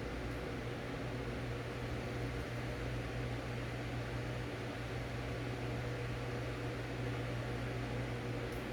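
Steady low electrical or mechanical hum over an even hiss, unchanging throughout.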